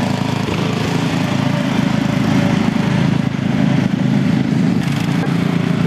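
Riding lawn mower engines running steadily.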